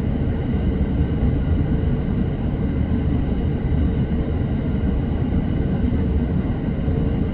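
Running noise of an electric commuter train heard from inside the car: a steady low rumble of wheels on rail with a faint steady hum above it.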